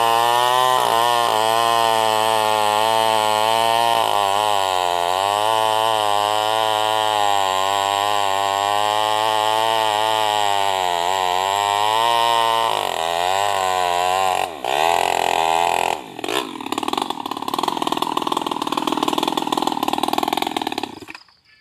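Small two-stroke New West NW588 mini chainsaw running hard while ripping sengon wood, its engine pitch wavering up and down under load. About 14 seconds in the pitch drops sharply, then the saw runs rougher and rattlier before the sound cuts off suddenly near the end.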